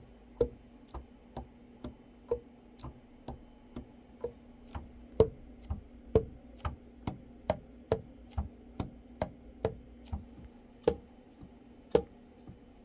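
A steady series of sharp clicks, about two a second and varying in strength, over a faint steady hum.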